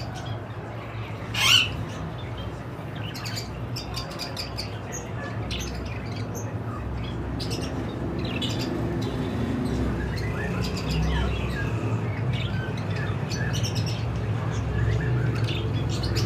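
Budgerigars chirping and chattering in many short calls, with one loud squawk about a second and a half in, over a steady low hum.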